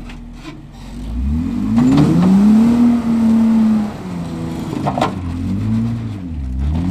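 Off-road Jeep's engine revving under throttle as it crawls an obstacle: it climbs in pitch about a second in, holds high for about two seconds, eases off, then is blipped up and down again. A sharp knock about five seconds in.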